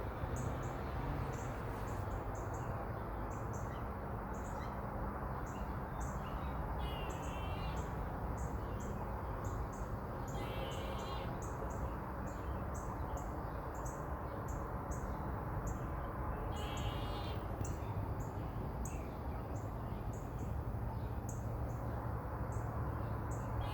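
A squirrel giving its agitated alarm call: short high-pitched chirps repeated over and over, about twice a second, with its tail fluffed up. Brief trilling bird song comes in three times.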